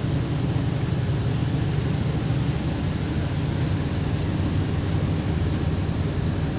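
Truck on the move at a steady speed: a low, steady engine drone mixed with road and wind noise.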